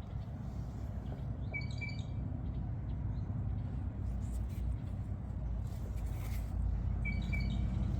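A bird calling twice, a short chirping phrase about two seconds in and again near the end, over a steady low rumble.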